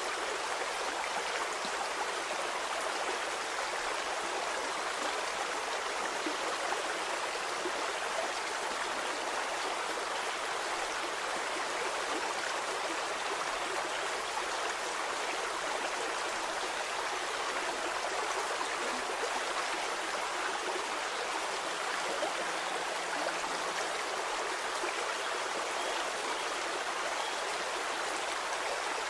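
Stream water flowing steadily over stones, a continuous even rush and babble.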